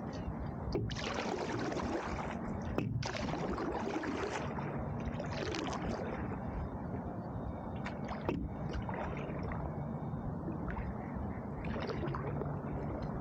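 Canoe paddle strokes in the water: splashes and gurgles at irregular intervals over a steady low rumble.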